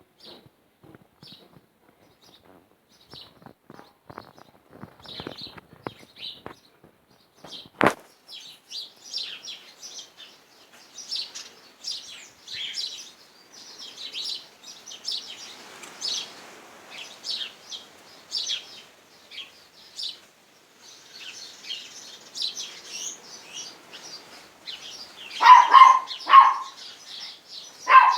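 A flock of house sparrows chirping busily, thicker and more continuous after about eight seconds, with one sharp click. Near the end a dog barks a few times, the loudest sound.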